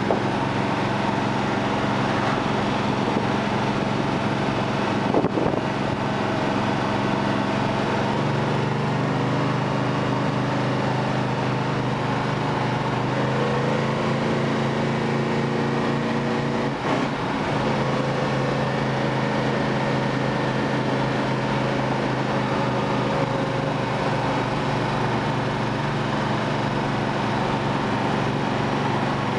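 1970 Dodge Charger's 440 Six Pack V8 running at cruising speed, heard from inside the cabin: a steady engine note over road and wind noise, its pitch shifting a few times. A brief thump about five seconds in.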